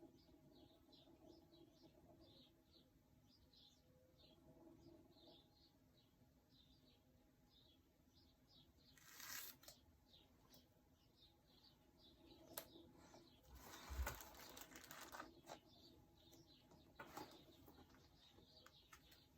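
Faint, quiet scene with small bird chirps repeating a few times a second. About halfway through come short bursts of rustling handling noise, with a soft knock a little later.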